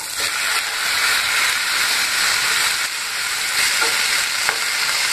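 Chopped tomatoes sizzling loudly as they hit hot oil with fried onions, garlic and whole red chillies in a frying pan, the sizzle jumping up as they go in, then stirred with a wooden spatula, with a couple of light knocks of the spatula against the pan.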